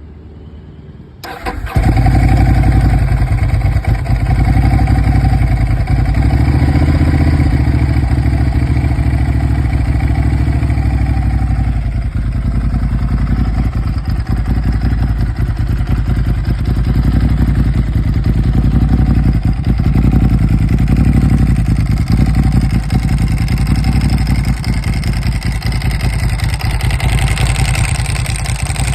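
2006 Ducati Paul Smart's air-cooled L-twin engine cranked on the starter and catching about a second and a half in, then running steadily on a cold start.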